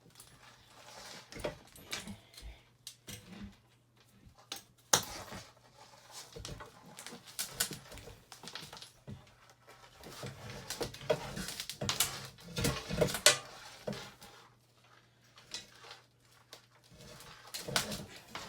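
Scattered clicks, knocks and rattles of hands and tools working loose wiring and parts on a dirt bike frame, over a low steady hum. The knocks come thicker about ten to thirteen seconds in.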